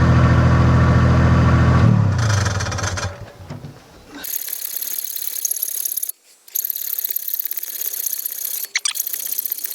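Wacker Neuson 2203 mini digger's diesel engine running steadily, then shut off about two seconds in, its note falling away. A steady high hiss follows for the rest.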